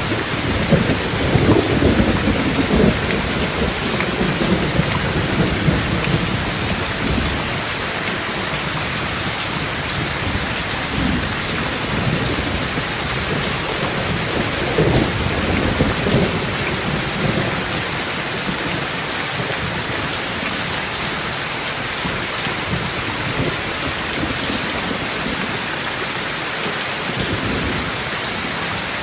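Steady heavy rain with rolling thunder. The thunder rumbles through the first several seconds, swells again about halfway through, then fades, leaving the rain.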